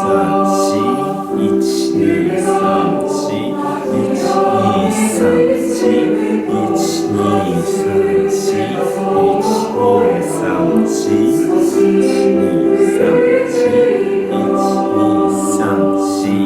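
A choir singing a choral piece, several voice parts holding and moving between long notes together.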